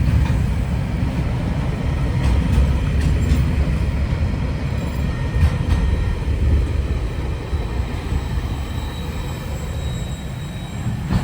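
Freight train rolling past: a steady low rumble of wagons on the rails, with scattered clicks over the rail joints and a faint wheel squeal, easing off a little near the end.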